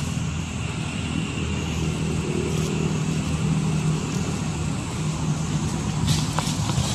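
A steady low engine hum, with a few sharp clicks near the end.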